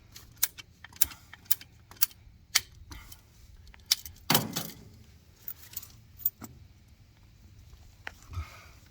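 Sharp metallic clicks and clinks of plumbing fittings and hand tools being handled, about a dozen in the first six seconds, with one louder clunk about four seconds in.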